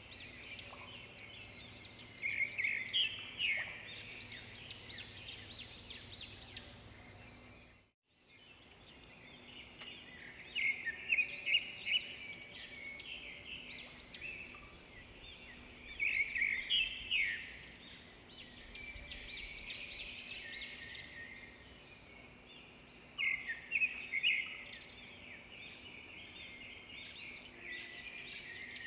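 Several small birds chirping and singing, with bursts of rapid high chirps and trills every few seconds over a steady background of softer calls. The sound drops out briefly about eight seconds in.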